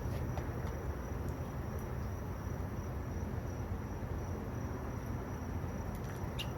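Steady background noise with a low hum and a faint high steady tone, and a couple of faint clicks near the end.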